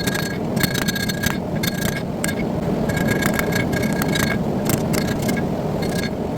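Bursts of rapid metallic clicking and ringing over a steady low rumble, typical of metal being struck in a smithy.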